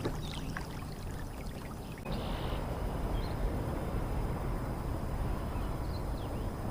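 Water trickling and lapping around a kayak: a steady wash of noise that gets louder about two seconds in.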